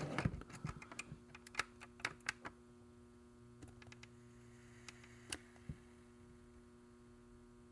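Light clicks and taps in quick succession for the first two and a half seconds, then a few single clicks, over a faint steady electrical hum from a plastic-repair hot stapler melting a staple into the RC truck's plastic body.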